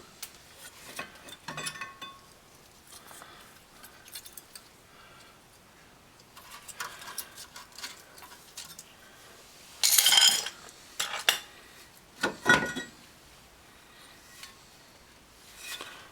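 Metal clinks and knocks of hand tools and rear disc-brake parts being handled, with three louder, ringing metal clanks about two-thirds of the way through.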